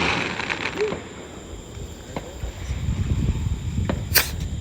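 Consumer firework going off: a hiss in the first second, a low rumble building after it, and a single sharp crack near the end.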